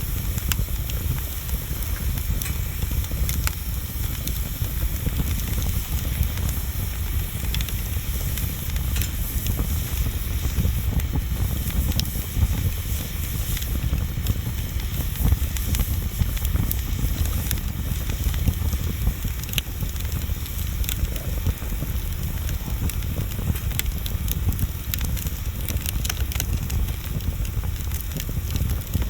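Wood bonfire burning: frequent sharp crackles and pops at irregular times over a steady low rush.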